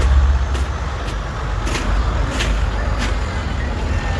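Tractor engines running with a steady low rumble, with several short sharp clicks over it.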